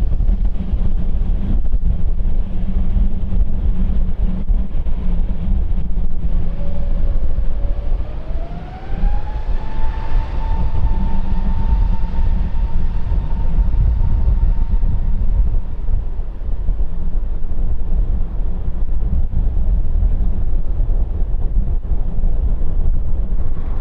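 Jet airliner engines running with a loud, steady low rumble; about a third of the way in an engine whine rises in pitch, then holds steady for several seconds before fading back into the rumble.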